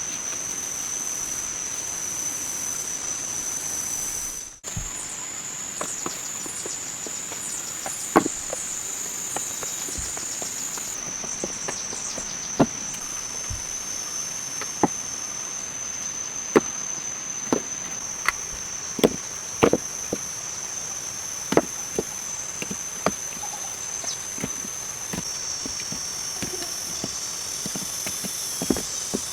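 Steady high-pitched drone of rainforest insects. There is a brief dropout about four seconds in. After that, scattered sharp clicks and knocks come every second or two.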